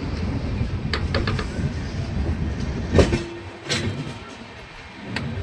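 Passenger train coaches rolling along the track, heard from the open coach doorway: a steady low rumble with a quick run of wheel clicks over rail joints about a second in. A sharp clank comes about three seconds in and another shortly after, then the rumble dies down.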